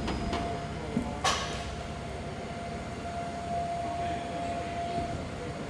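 Lifting equipment running with a steady whine while a heavy machine is moved onto a flatbed trailer, with one sharp metal clank about a second in.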